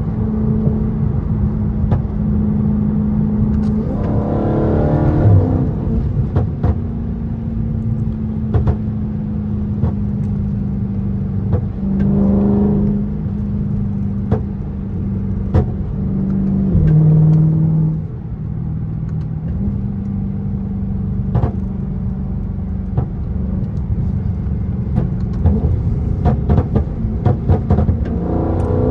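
Dodge Charger 392's 6.4-litre HEMI V8 running under way with a steady low drone, rising in pitch a few times as it accelerates. Sharp pops scattered throughout are from its tuned exhaust.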